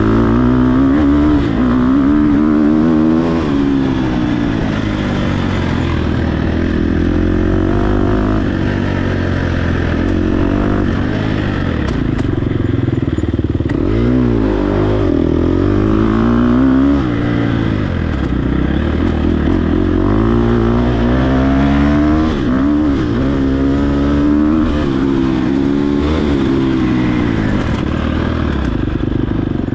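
Dirt bike engine ridden hard, its pitch climbing and falling again and again as the throttle opens and closes, with deep drops about halfway through before it climbs again.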